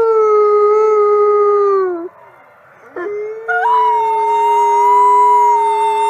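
Wolves howling together in long, overlapping howls at different pitches. The howls slide down and stop about two seconds in; after a short pause and a brief rising call, steady howls start again about a second later.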